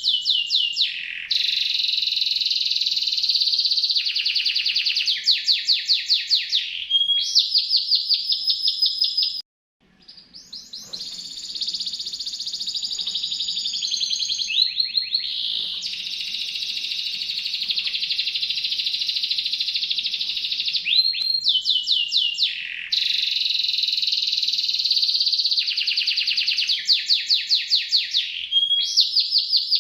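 Domestic canary singing long, continuous rolling songs made of rapid high-pitched trills. The song breaks off briefly about a third of the way in, then resumes in the same repeated pattern, as a looped tutoring recording.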